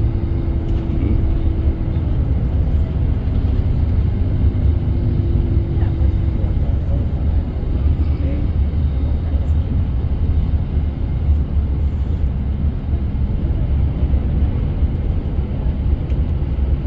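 Steady low rumble of engine and road noise inside a moving coach bus.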